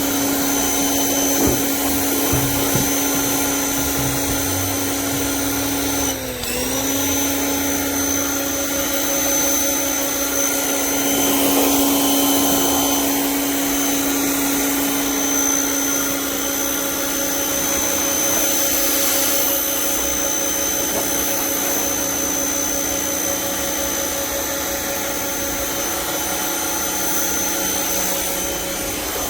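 Portland 1750 PSI electric pressure washer running and spraying, with a portable generator running alongside it. The steady machine hum sags briefly in pitch about six seconds in, then recovers.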